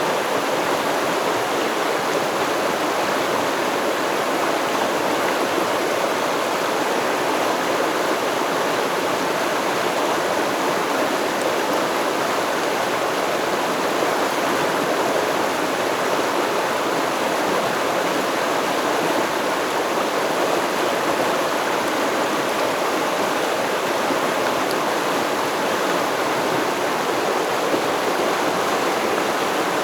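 Shallow stream flowing steadily over rocks, an even rushing and babbling of water.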